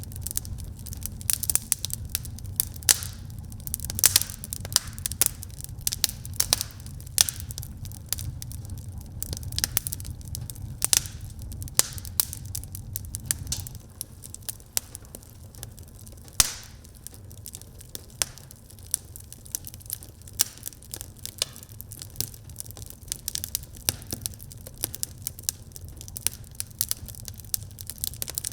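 Wood fire burning in a fireplace, crackling with many sharp irregular pops. A low rumble underneath drops away about halfway through.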